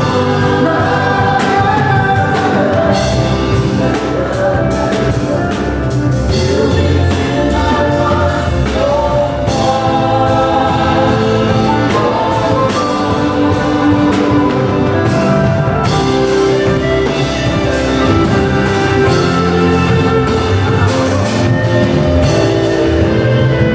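Gospel worship music: a choir singing with instrumental backing and drums at a steady beat.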